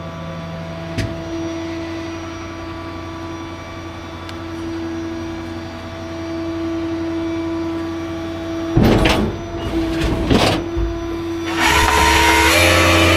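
A tow truck running down the road, its engine giving a steady hum. About nine and ten seconds in come two short loud rushes of noise, and near the end a longer loud rush of noise.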